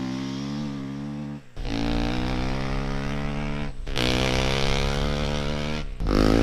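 KTM 350 EXC-F single-cylinder four-stroke dirt bike accelerating in fourth gear, in back-to-back clips that swap its exhaust between the stock muffler and the LEXX MX muffler tips. The engine note cuts off abruptly about one and a half seconds in, again at about four seconds and at six seconds, and each clip is louder than the one before.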